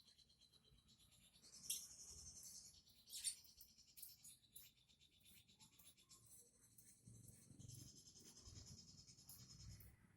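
Faint, high-pitched scratchy chattering from a small caged songbird, coming in several stretches, with two short sharp chirps in the first few seconds.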